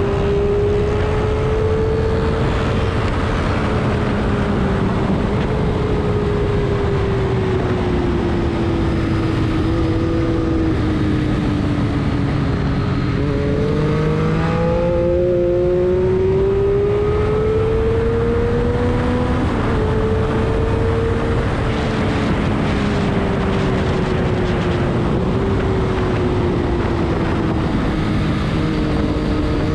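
Car engine running hard on a race track, its pitch slowly climbing and falling over several seconds at a time, with a few sudden jumps in pitch, over loud, steady road and wind noise.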